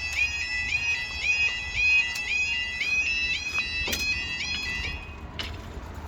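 Level crossing audible warning alarm sounding its rapid yodelling tone, a short rising wail repeated about two and a half times a second, which cuts off about five seconds in.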